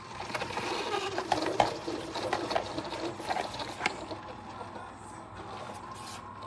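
Keurig K-Supreme Plus coffee maker brewing a cup: its pump running with clicking and rattling for about four seconds, then settling to a quieter steady hum.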